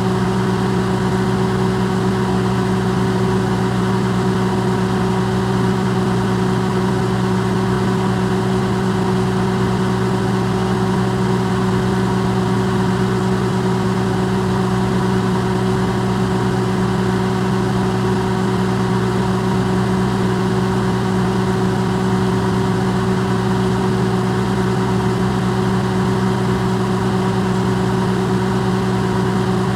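Electrolux microwave oven running, recorded close and amplified: a steady, unchanging hum with a mains-like drone and fan noise.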